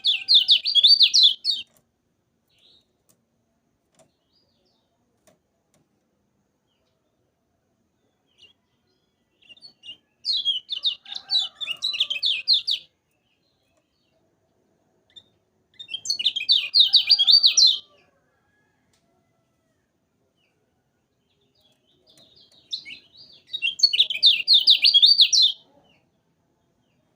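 Kecial kuning songbird singing in four bursts of rapid, high chattering notes, each two to three seconds long and a few seconds apart.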